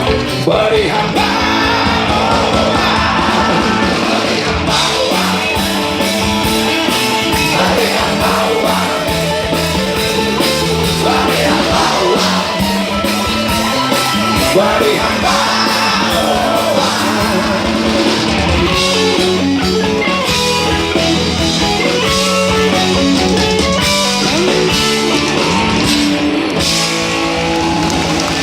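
Live rock band playing loudly and steadily, with guitars and singing.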